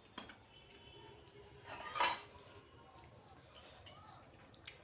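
Plate and utensils clinking during a meal: a few light clicks and one louder clatter about two seconds in.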